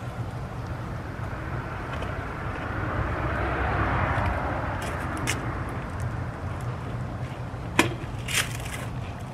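Wind rumbling on the microphone, swelling in a gust around the middle, with two sharp knocks near the end.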